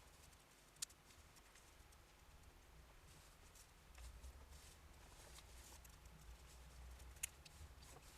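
Near silence with faint scratchy noise and two sharp clicks, one just under a second in and another near the end.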